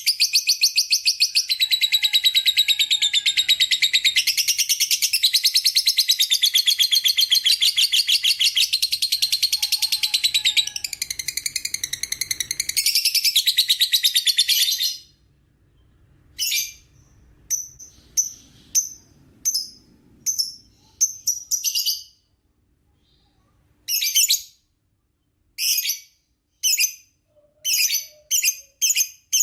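Lovebird 'ngekek': a long, rapid, high-pitched chattering trill that runs unbroken for about fifteen seconds and stops abruptly, followed by short bursts of shrill chirps with pauses between them.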